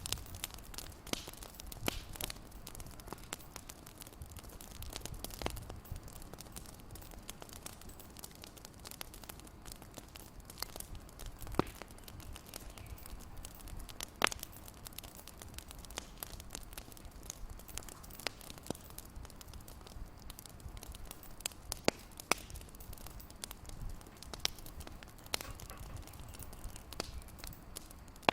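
Wood fire crackling, with irregular sharp pops over a low steady hiss and a few louder snaps.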